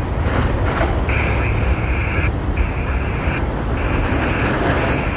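Freight train rolling past, a steady low rumble of cars on the rails. Over it a high-pitched squeal comes and goes four times, each time for about a second.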